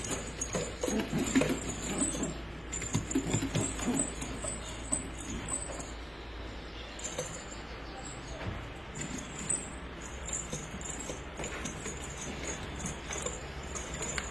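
Pigeons moving about, a scratchy rustling and patter, busiest in the first four seconds and lighter after.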